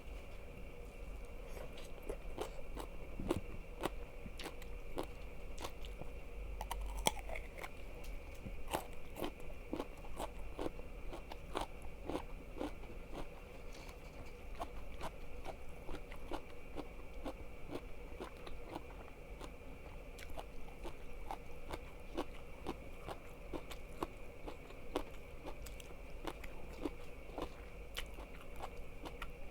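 Close-miked chewing and biting of crunchy food: a steady run of short, crisp crunches.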